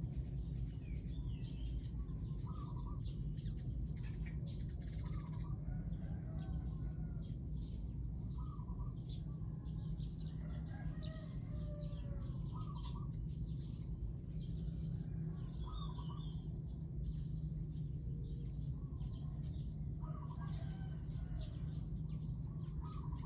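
Birds calling: a short two-note call repeats every few seconds, with scattered higher chirps, over a steady low rumble.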